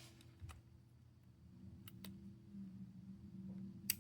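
A few faint, sharp clicks and taps from handling a phone's flex cable and its board connector, with one sharper click near the end as the connector is pressed home.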